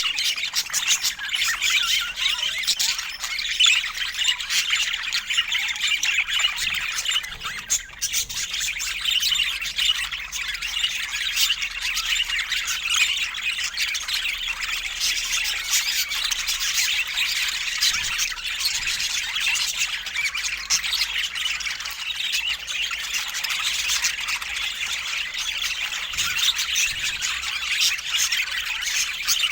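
A group of budgerigars calling continuously: many overlapping high-pitched chirps and squawks without a break.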